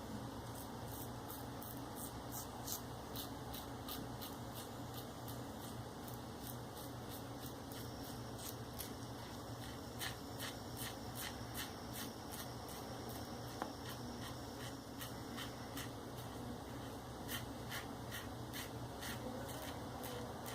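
Maggard V3A safety razor with a Shark Super Chrome blade scraping through lathered facial stubble in short, repeated strokes, a faint crackling scratch with each stroke.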